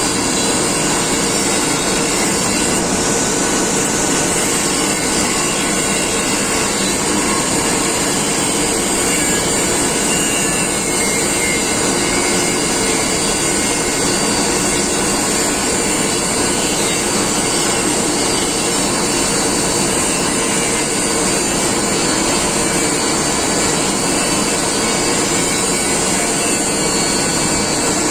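Steady, unbroken whirring of a power tool running continuously.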